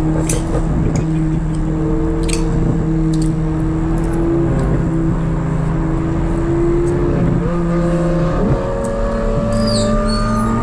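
Chevrolet C8 Corvette Z06 V8 with an aftermarket exhaust, running at high, steady revs with a sustained high-pitched note. The pitch steps down about four seconds in, dips and climbs again around eight seconds as it shifts, and rises once more near the end as it accelerates.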